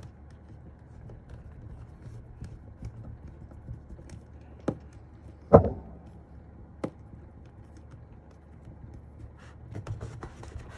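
Keyboard parts being handled and fitted back together: scattered light ticks and taps, with three sharp hard clicks a little past the middle, the second the loudest.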